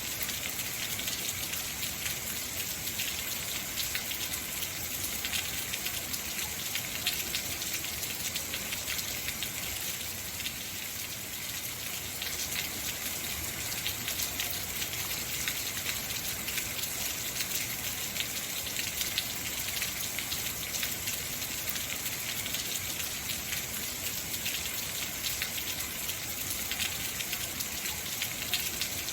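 Heavy rain falling steadily, a dense hiss of many fine drop impacts.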